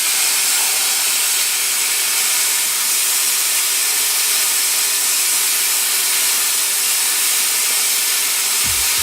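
Plasma cutter cutting steel: a steady hiss of the arc and air jet that runs without a break.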